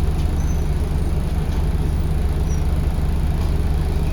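Scania L94UB bus's diesel engine running steadily, heard from on board the bus, a deep even drone.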